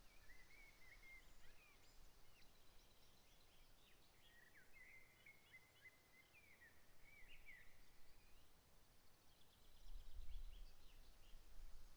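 Faint birdsong: short chirps and trills. A low rumble swells about ten seconds in.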